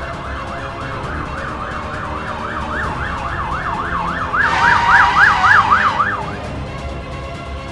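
Emergency-vehicle siren in fast yelp mode, sweeping rapidly up and down about four times a second. It grows louder around the middle and cuts off about six seconds in, over background music.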